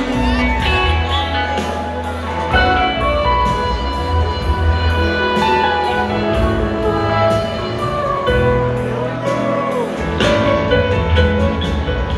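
A live rock band playing, with held instrument notes over a bass line and a steady drum beat.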